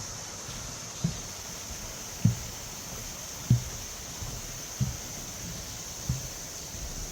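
Footsteps of a hiker walking a mountain path: soft low thuds, evenly paced about one every 1.2 seconds, over a steady high hiss.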